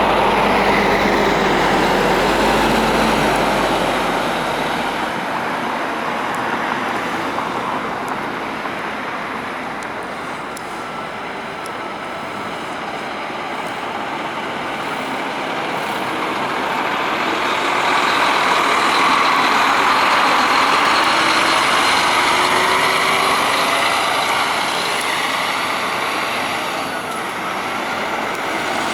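Scania K440 double-decker bus running, its diesel engine noise loud with a deep rumble for the first few seconds. It eases off about a third of the way in, then swells again past halfway.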